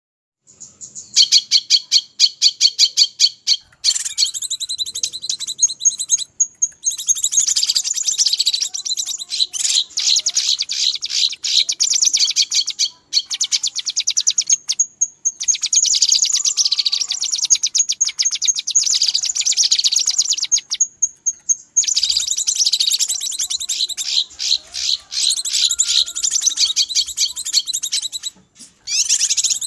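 Cucak kinoi (a leafbird) lure recording: dense, rapid, high-pitched chattering and twittering calls in a busy, agitated mix, with a few short breaks. This is the noisy calling that bird trappers play to draw in wild kinoi.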